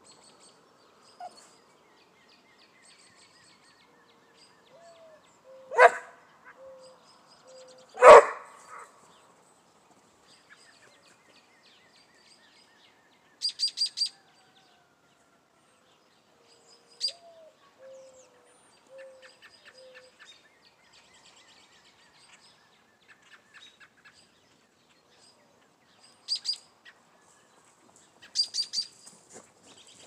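Small birds chirping in short, high bursts now and then, with two sharp cracks about two seconds apart roughly a fifth of the way in, the loudest sounds here.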